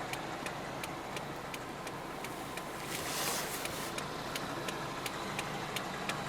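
1999 Toyota Celica engine idling steadily, heard from inside the cabin, with a quick even ticking of about five ticks a second over the idle hum.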